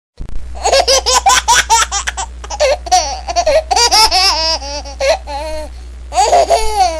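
A baby laughing in rapid high-pitched bursts, with another burst of laughter near the end, over a steady low hum.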